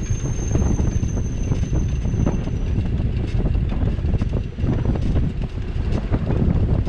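Wind buffeting a GoPro's microphone on a moving bicycle: a loud, steady low rumble with ragged gusts. A faint high tone sounds in the first couple of seconds.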